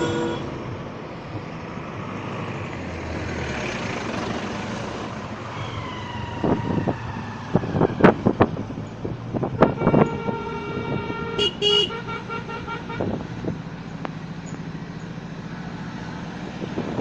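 Road traffic with vehicle horns honking. One horn sounds with a falling pitch about six seconds in, followed by a few sharp knocks, then another horn about ten seconds in holds for nearly two seconds.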